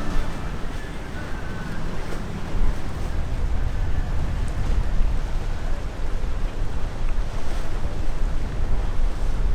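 Wind buffeting the microphone, a steady low rumble over boat and water noise.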